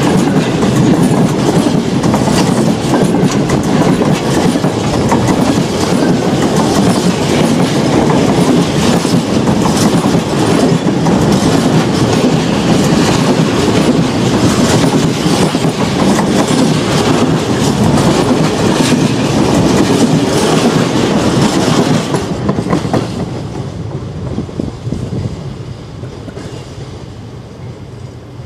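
Freight wagons rolling directly over a camera placed between the rails: a loud, continuous rumble of steel wheels on track with a rapid clatter of clicks from the wheels over rail joints. About 22 seconds in the noise begins to fade away as the last wagon passes.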